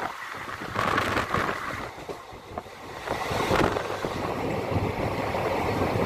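Express passenger train running on the rails at night, heard from an open coach door: a steady rush of wind on the microphone over the rumble of the wheels, easing off briefly about two seconds in.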